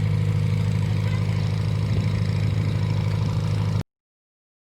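Steady low drone of a car engine running, which cuts off abruptly near the end.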